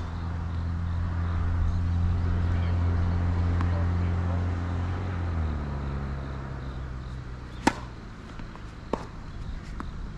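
A passing vehicle's engine hum that drops in pitch about halfway through and fades, then three sharp tennis ball impacts, racket strikes and bounces, about a second and a half apart near the end.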